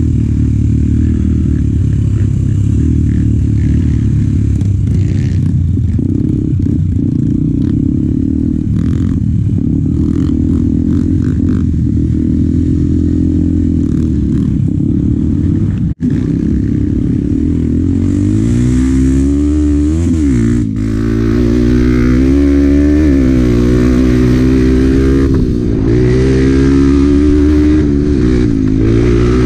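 Honda Bros 125 single-cylinder four-stroke engine running under way, steady at first. After a brief dropout about halfway through, it runs louder, revving up and down repeatedly as the rider works the throttle.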